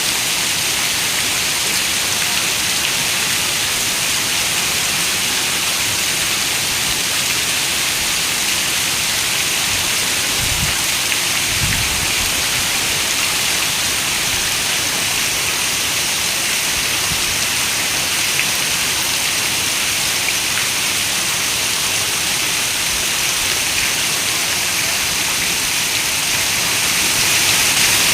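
Steady heavy rain falling on a window, an even hiss. About ten seconds in comes a brief low rumble of distant thunder.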